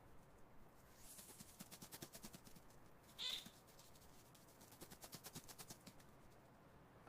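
Faint rapid clicking, several light clicks a second, with one brief high-pitched animal call about three seconds in.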